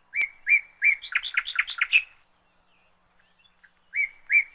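A songbird singing a short song twice: three even notes, then a quick run of faster notes, about two seconds in all. The song starts again about four seconds in.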